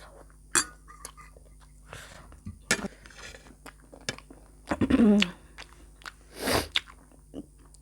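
Close-miked eating: chewing and crunching with sharp mouth clicks. About five seconds in there is a brief voiced sound that falls in pitch, and a second later a short breathy rush of air.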